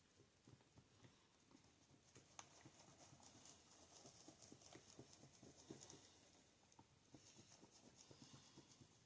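Faint, quick tapping and scraping of a stir stick against the sides of a mixing cup as two-part epoxy resin and hardener are stirred together.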